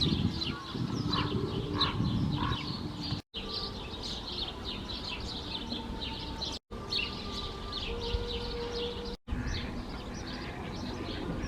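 Many small birds chirping and twittering in quick, high, short notes over a low background rumble. The sound cuts out completely for a split second three times.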